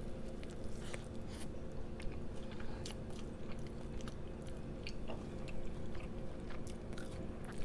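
A person biting into and chewing a saucy fried chicken sandwich, with many small wet clicks and crunches. A steady low electrical hum runs underneath.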